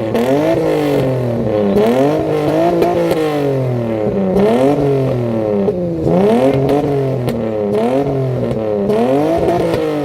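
Toyota Supra's engine revved again and again in short blips, its pitch climbing and dropping back about once a second or so.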